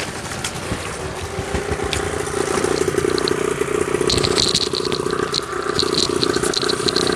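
Small petrol outboard motor idling with its fuel tap shut, running on the petrol left in the carburettor until it runs dry.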